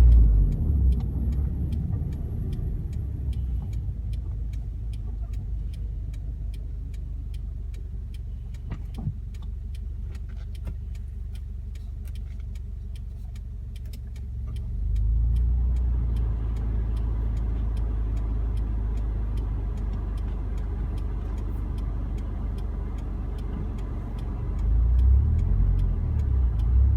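Toyota 86's flat-four engine heard from inside the cabin through a Kakimoto Class KR quad-exit aftermarket exhaust, a very deep, low-pitched drone. It eases off early on, swells again about halfway through as the car is driven on, and rises briefly once more near the end.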